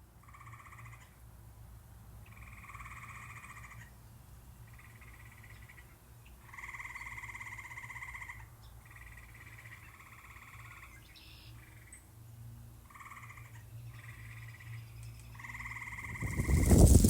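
Frog calls: a pulsed trill about a second long, repeated about ten times with short gaps. A loud rush of noise sets in near the end.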